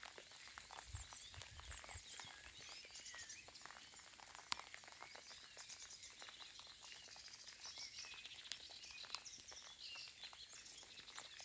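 Faint outdoor ambience of scattered soft raindrops pattering with small birds chirping and singing. One slightly sharper drip or tick stands out about four and a half seconds in.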